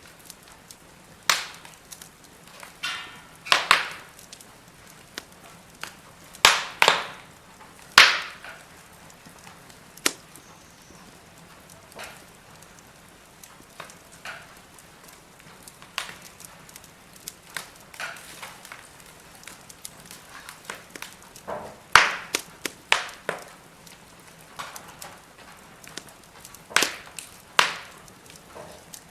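Burning firewood crackling in a fire pit: irregular sharp pops and snaps, a few much louder than the rest, over a faint steady hiss.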